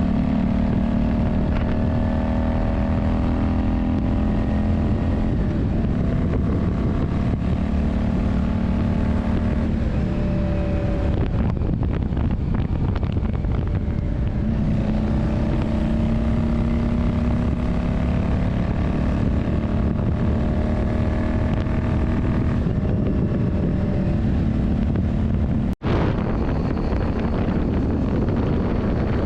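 Yamaha Drag Star 400's V-twin engine running under way, its note steady with slow drifts in pitch and heavy wind rumble on the microphone. The note changes about ten seconds in and the engine eases off for a few seconds before pulling steadily again. The sound cuts out for an instant near the end.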